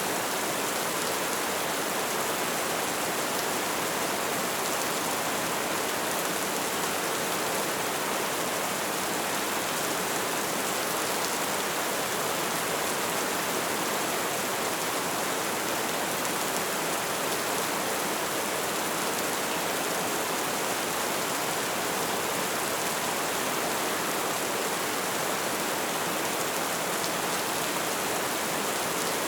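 Light rain falling, a steady even hiss of drops.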